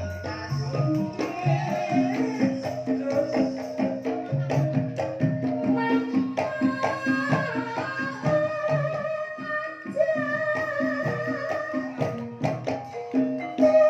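Banyumasan gamelan playing a gending in the ebeg style: ringing metallophone notes in a repeating pattern, with drum strokes throughout.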